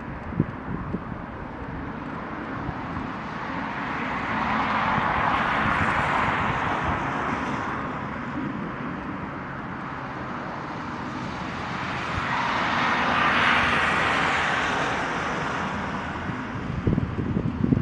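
Airliner's jet engines rushing, swelling louder twice and easing between, with low thumps of wind buffeting the microphone near the start and end.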